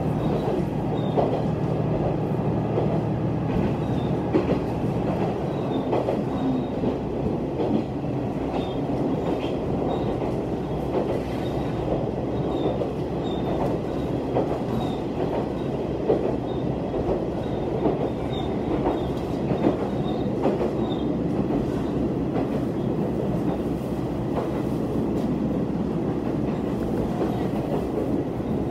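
Heard from inside a diesel railcar running at speed: a steady rumble of wheels on rail, with occasional sharp clacks over rail joints. A low engine tone fades out about three seconds in.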